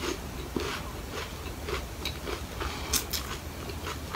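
Chewing a mouthful of apple pie pastry: a string of soft, irregular crackles and mouth clicks.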